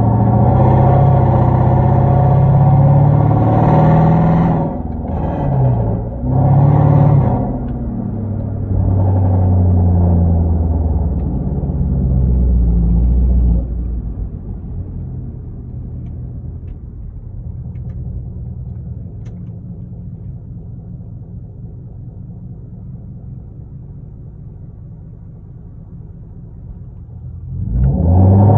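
Straight-piped Hyundai Genesis 5.0 V8 exhaust through Flowmaster Super 10 mufflers with no catalytic converters, on the move. It is loud under throttle, with the pitch rising and falling and a couple of short dips as it shifts in the first several seconds, then a steady pull. About halfway through it backs off to a quieter low drone, then opens up sharply again near the end.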